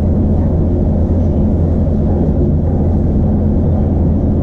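Iarnród Éireann Class 2600 diesel multiple unit running at speed, heard from inside the carriage: a steady low drone of the diesel engine blended with wheel and rail rumble.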